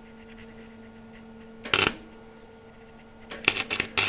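Electric welding arc crackling in short tacks: one brief burst about two seconds in, then a stuttering string of strikes that settles into a steady crackle near the end. A steady hum runs underneath.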